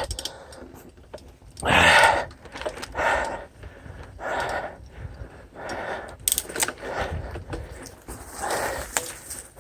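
Mountain biker breathing hard, a heavy breath about every second, with low wind and trail rumble underneath and a couple of sharp clicks about six seconds in.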